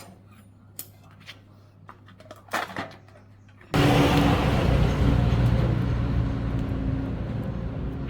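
A few light clicks and knocks. About four seconds in, a machine engine suddenly comes in loud and keeps running with a steady low hum, easing off slightly.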